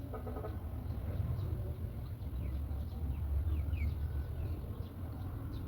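Steady low rumble with faint high-pitched bird chirps over it, a few short falling ones near the middle.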